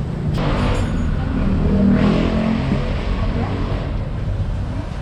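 Motor vehicle engine noise, a steady low rumble that swells about two seconds in.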